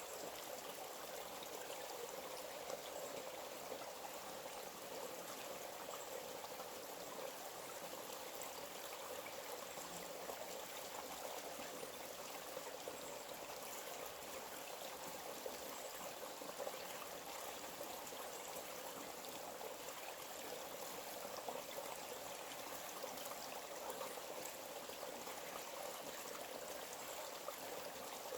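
A small forest stream flowing and trickling steadily.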